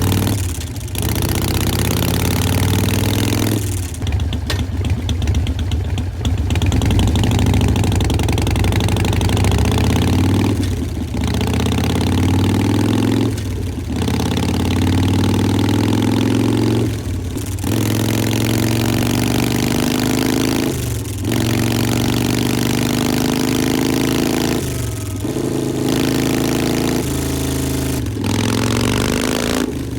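Harley-Davidson Sportster Forty-Eight's 1200 cc V-twin through Vance & Hines Short Shots exhaust, running under load on a chassis dyno. The engine pitch climbs again and again as it accelerates through the gears, breaking off briefly at each shift, several times over.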